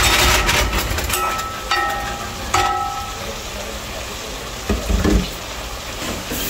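Curry chicken, bodi and potatoes frying down in a pot, sizzling steadily as they are stirred, with a few short high squeaks between one and three seconds in and a couple of dull knocks near five seconds.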